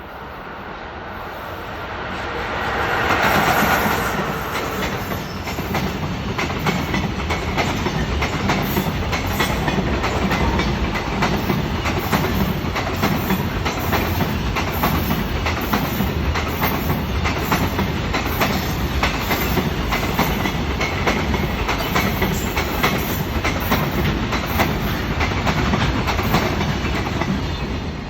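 JR Freight EF66 electric locomotive hauling a long train of Koki container wagons past: the sound builds to its loudest about three seconds in as the locomotive goes by, then settles into a steady rumble of wagons with rapid clickety-clack of wheels over rail joints.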